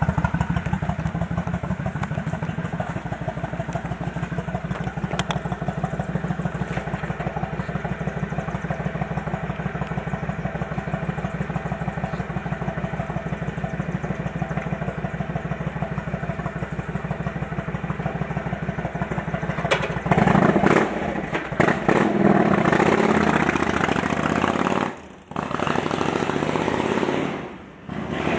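2000 Honda Shadow Aero 1100 with a single-pin-crank V-twin and Cobra aftermarket exhaust idling with a steady, even pulse. About two-thirds of the way through, the even pulse gives way to a louder, noisier sound, broken by two short drops near the end.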